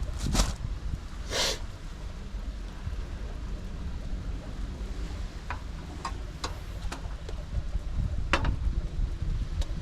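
Steady rain with scattered sharp drips and taps, over a low wind rumble; two brief louder rushes come in the first couple of seconds.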